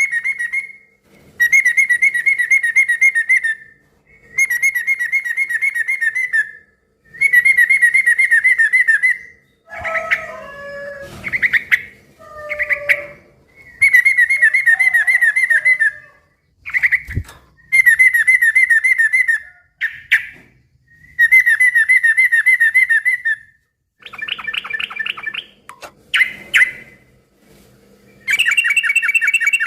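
Yellow-vented bulbul (trucukan) singing loud phrases over and over, each a fast bubbling chatter about two seconds long with short pauses between. Briefer, rougher chirps and calls break in around ten to thirteen seconds in, and a differently pitched run of phrases comes near the end.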